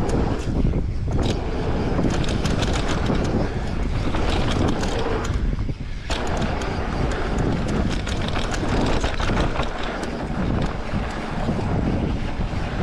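Wind buffeting the microphone while riding an electric mountain bike along a dirt trail, with frequent clicks and knocks from the bike jolting over bumps. The noise drops briefly about six seconds in.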